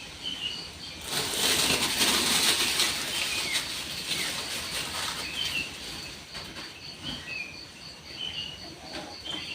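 Food sizzling in hot frying oil. The hiss starts suddenly about a second in, is loudest for the next two seconds, then slowly dies down.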